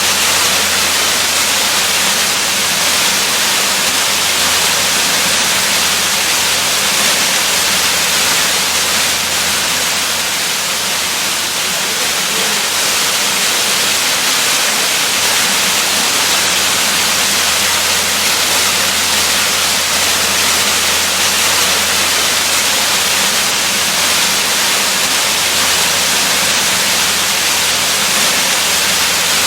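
Waterfall rushing: a steady, unbroken hiss of falling water that never changes.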